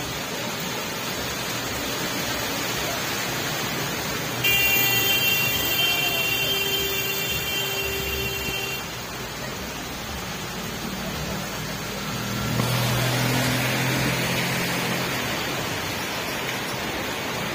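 Heavy rain on a flooded street, with vehicles driving through the standing water. A high steady tone sounds from about four to nine seconds in. An engine hum swells from about ten seconds in as a car approaches.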